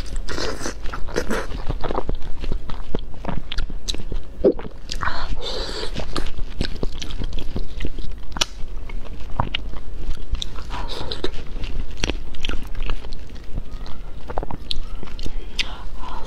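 Close-miked mouth sounds of a person biting and chewing soft, saucy meat: a continuous run of wet smacks and small clicks.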